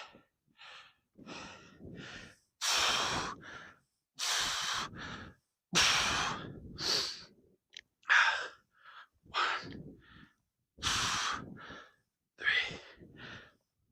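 A man breathing hard through bodyweight exercise reps: a series of loud, forceful blown exhales with shorter, quicker breaths in between.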